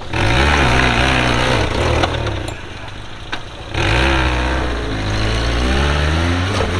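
An off-road 4x4's engine revving hard in two bursts of throttle, easing off for a moment in between, with a loud rushing noise over it.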